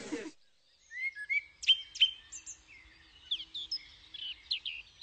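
Small birds chirping: a quick string of short chirps and whistled notes that begins about a second in, just after the outdoor background cuts off.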